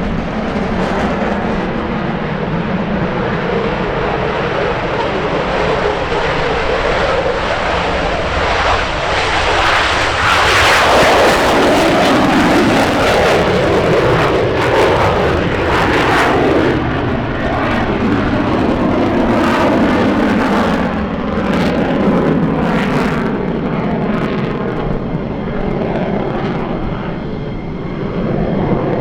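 Military jet engine noise, loud throughout. It swells to a peak in the middle, then the pitch falls away as an aircraft goes past.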